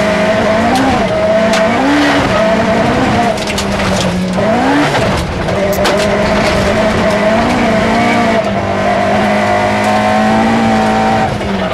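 Toyota Starlet rally car's four-cylinder engine held at high, steady revs, heard from inside the cabin, with a few brief rises and falls in pitch as the throttle is worked. Sharp clicks of loose gravel striking the car come through over it.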